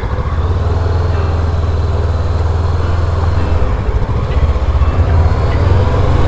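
Honda NX500 motorcycle's parallel-twin engine running with a steady low rumble, growing louder as the bike gets under way.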